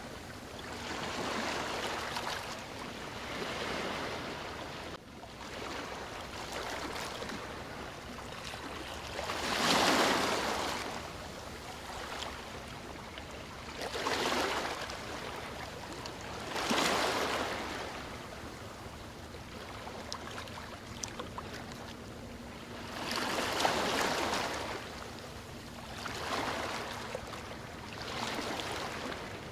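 Sea waves washing onto a shore in repeated surges, each one swelling and fading over a couple of seconds, with a few seconds between them.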